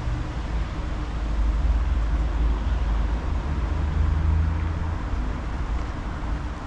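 Steady low rumble of wind and road traffic heard while riding a mountain bike, with faint low engine hum.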